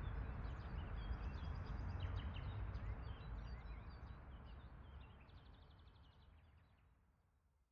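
Ambience track of small birds chirping over a low, steady rumbling background noise, the whole bed fading out gradually to silence over the last few seconds.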